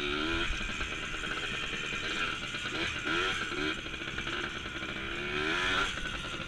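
Small 100 cc dirt bike engine under way, its revs rising and falling several times as the throttle is worked, with a longer climb near the end.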